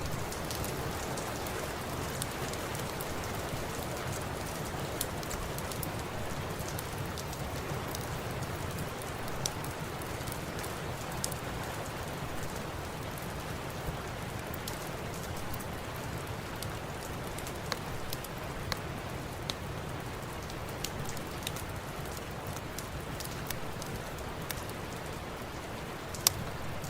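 Steady rain falling as an even hiss, with scattered sharp clicks and pops through it, a couple of them louder, near the start and near the end.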